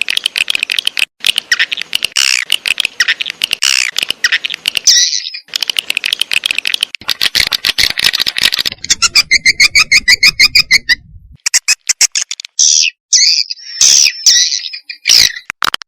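Swiftlet lure call (walet calling sound): a recording of edible-nest swiftlets twittering in dense, rapid, high chirps, with a run of quick evenly spaced clicking pulses about two-thirds of the way through and a brief gap after it.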